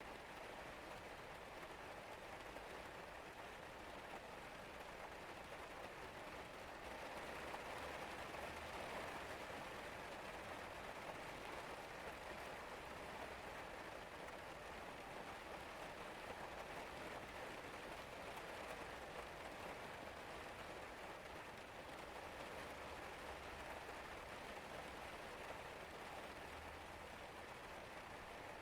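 Steady rain falling, an even patter that swells a little heavier about eight seconds in.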